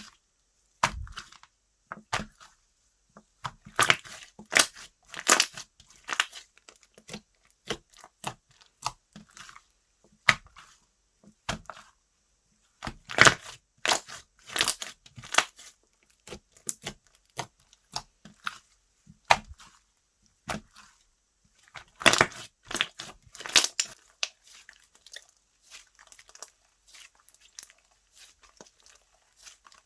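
Hand-played slime being pressed, stretched and squished, giving irregular crackling, popping and tearing sounds. The crackles come in louder clusters three times and thin out toward the end.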